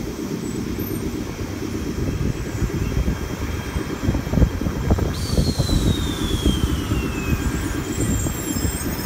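Trains at a station: an E3 series shinkansen rolling slowly past a standing 719 series electric train, a steady low rumble with scattered wheel knocks. About five seconds in, a thin whine falls in pitch for a couple of seconds.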